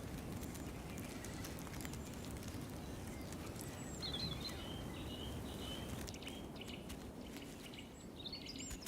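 Low, steady outdoor background noise with a few faint, high bird chirps about four seconds in and again near the end.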